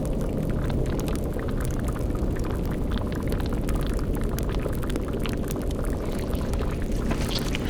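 Cauldron boiling: steady bubbling with many small pops over a low, dense rumbling bed.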